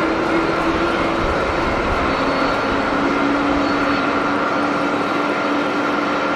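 Jet airliner engines running as a steady roar with a high whine over it; a lower tone in the roar drops in pitch about two seconds in.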